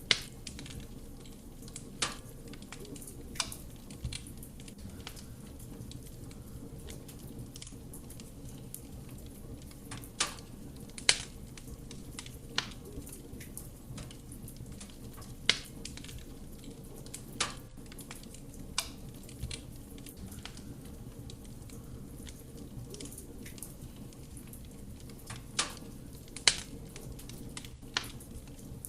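Wood fire burning in a fireplace: a soft, steady roar of flame with sharp crackles and pops from the burning wood, about a dozen at irregular intervals, the loudest near the start and around the middle.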